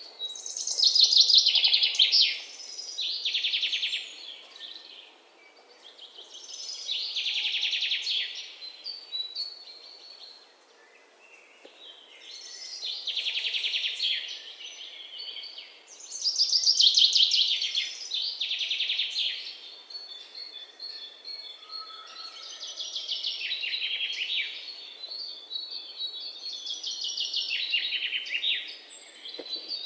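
Songbirds singing: loud, rapid trilled phrases, each a second or two long, come every few seconds, with softer chirps and a faint thin high note in between.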